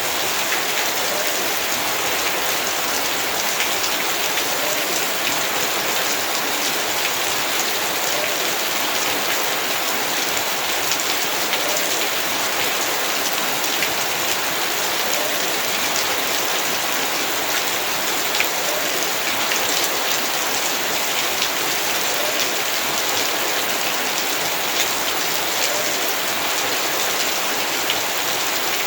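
Heavy rain falling steadily, a dense, even hiss of rain with individual drops tapping on surfaces, now and then a slightly louder drop.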